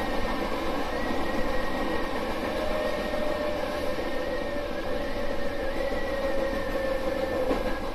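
Hankyu 5000-series electric train running along the track, heard from inside the front of the cab: a steady rumble of wheels on rail with a faint whine. In the second half the whine sinks slightly in pitch as the train slows for the next station.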